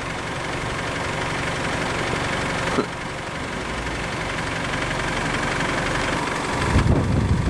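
A car engine idling steadily, with a brief click a little under three seconds in and a louder low rumble near the end.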